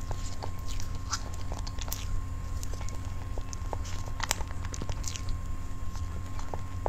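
Close-miked chewing and small wet mouth clicks as soft cream cake is eaten, with light scrapes and taps of a plastic fork cutting into the cake on its paper tray. A low steady hum lies underneath.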